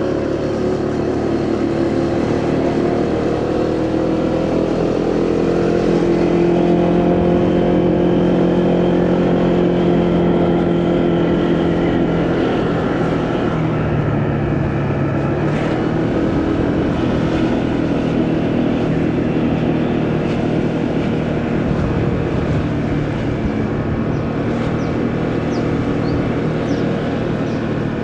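Motorcycle engine running under way, its pitch rising and easing a little with the throttle, over steady wind and tyre noise.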